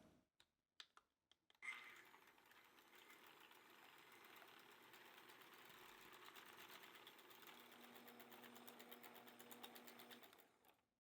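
A small motor-driven appliance running steadily with a fast rattle. It starts after a few light clicks, a low hum joins in near the end, and it cuts off shortly before the end.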